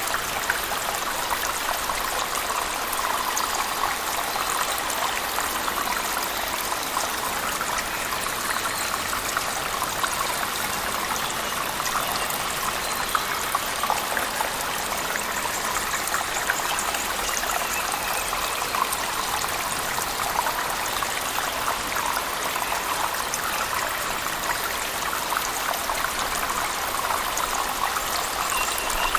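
Steady rush of a waterfall falling in a cave, mixed with heavy rain, with a light patter of drops over the even roar of water.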